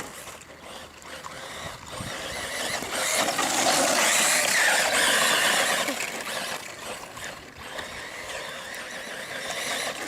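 Electric 1:10 RC car driving past: a high motor and gear whine that swells, stays loud for a few seconds while its pitch bends with the throttle, then falls away.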